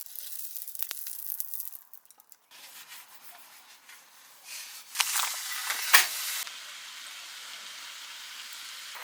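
Food sizzling in a hot pan, in short stretches that start and stop abruptly, with a sharp click about six seconds in.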